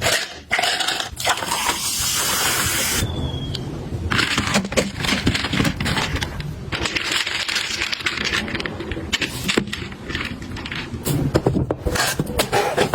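Objects being handled and set down: a run of clicks, taps and scrapes, with a steady hiss for a couple of seconds near the start.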